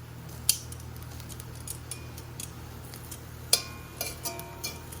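A metal cooking utensil clinking and scraping against a pot while stirring browning chicken gizzards: one sharp click about half a second in, then a run of ringing clinks near the end, over a steady low hum.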